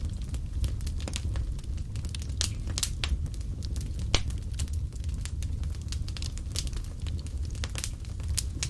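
Wood fire burning in a fireplace, with a steady low rumble of flame and irregular sharp crackles and pops, the loudest pop about four seconds in.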